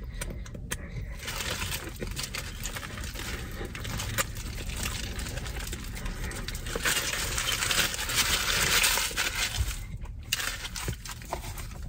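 Close-miked chewing and crunching of a crispy fried chicken sandwich, a crackly noise with small clicks, strongest from about seven to ten seconds in.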